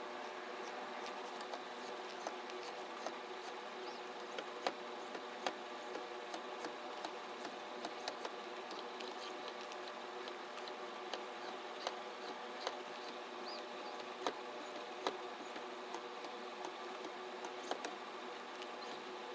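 Joint motors of an Allegro Hand V3 robotic hand running, a steady whine of several layered tones with irregular sharp clicks scattered through it.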